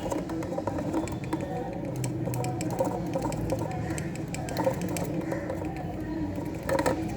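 Light, irregular tapping and clicking as a funnel of baking soda is shaken and tapped on a test tube to get the powder through, with a cluster of clicks near the end, over a steady low hum.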